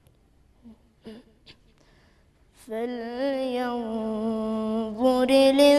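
A pause with a few faint clicks, then, about halfway in, a single voice starts Quran recitation in a melodic chant. It holds a long drawn-out tone, then steps up to a higher one near the end.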